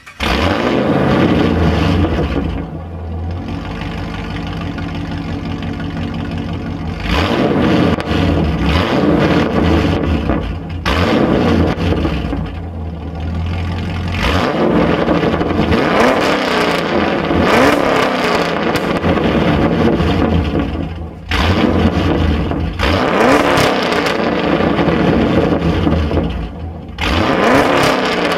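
2009 Pontiac G8 GT's 6.0 L L76 V8, breathing through long-tube headers, high-flow cats, an X-pipe and axle-back mufflers, starting with a loud flare that settles to idle within a couple of seconds. From about seven seconds in it is revved again and again, the pitch rising and falling with each blip, with longer revs in the second half.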